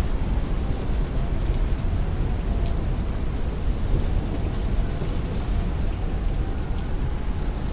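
Heavy rain beating on a window while strong wind blows, a steady, dense wash with a deep rumble and a faint wavering whistle of wind.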